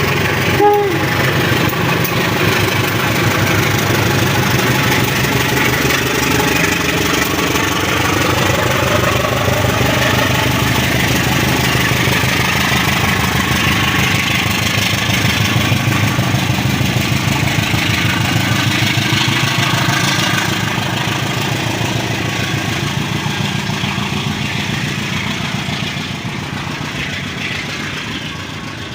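Engine running steadily, its pitch shifting in the middle, fading over the last several seconds. A brief beep-like tone sounds about a second in.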